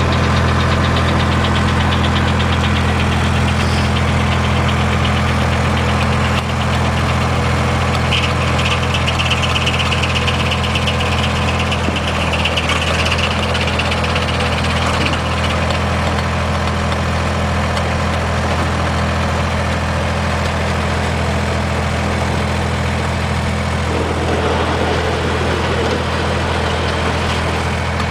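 Engine powering an old sawmill running steadily, with a faint high whine for several seconds in the middle.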